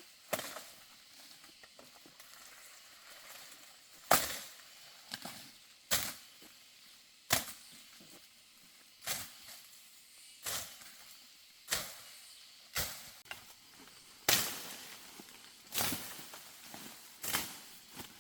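A dozen or so sharp knocks, spaced unevenly about a second or a second and a half apart, like blows of a hand tool on wood.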